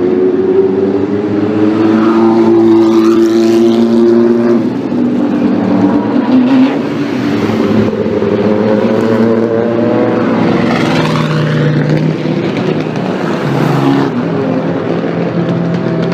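Classic racing car engine running hard under acceleration, its pitch climbing and dropping several times as it works through the gears.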